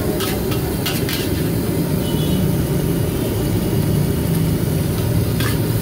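Steady low roar of a gas wok burner at a fried-rice stall, with a few sharp metallic clinks of a spatula against the wok.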